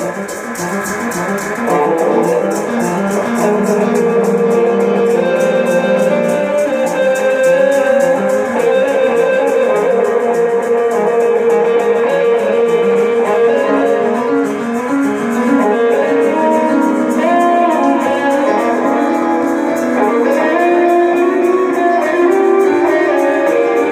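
Instrumental music led by guitar, with no vocals.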